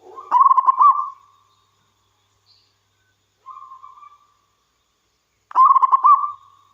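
Zebra dove (perkutut) cooing: two loud phrases of quick rolling coo notes, one just after the start and one about five and a half seconds in, with a softer drawn-out coo between them.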